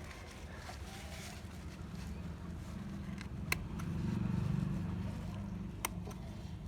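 Low engine-like rumble, likely from a passing motor vehicle, growing louder about four seconds in and then easing off, with a few sharp clicks.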